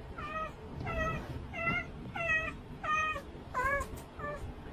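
A cat meowing over and over in short calls, about two a second.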